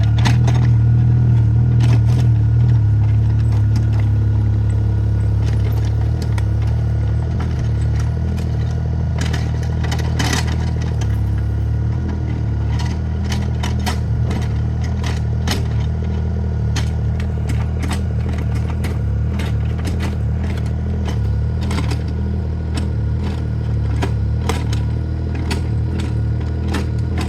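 Mini excavator's diesel engine running steadily under work, with scattered clanks and clatter from the machine and its bucket.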